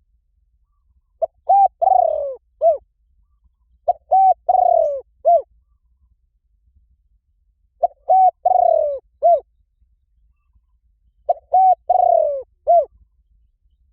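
Spotted dove cooing: four phrases a few seconds apart, each a couple of short coos, a longer falling coo and a final short coo.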